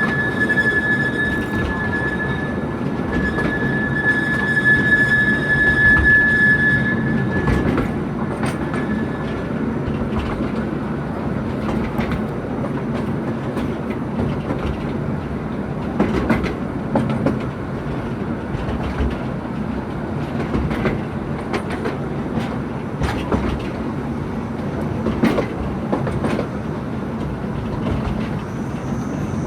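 Narrow-gauge forest railway train running, heard from aboard: a steady rumble with clicks from the rails, and a steady high-pitched squeal for roughly the first eight seconds that then fades out.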